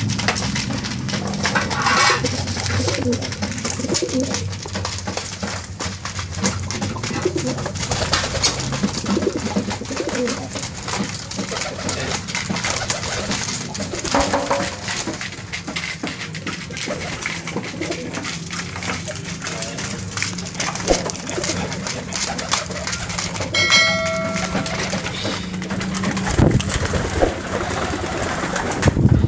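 Domestic pigeons cooing over a busy background of clicks and rustling, with a short pitched tone about twenty-four seconds in.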